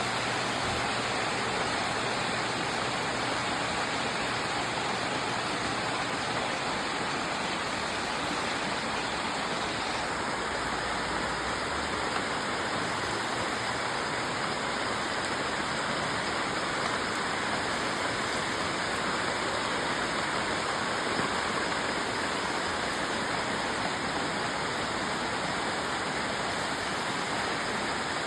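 Steady rain falling, an even rushing hiss of water with no breaks or distinct drops standing out.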